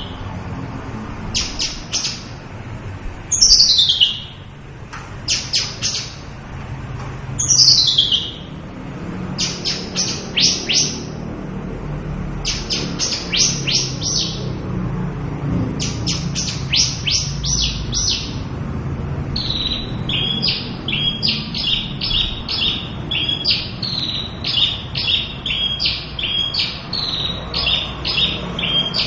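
Javan bush lark singing a varied, continuous song. It opens with high whistles sliding steeply downward, one every few seconds, between bursts of rapid clipped notes. In the second half these give way to a fast, rhythmic run of repeated notes, each dropping in pitch.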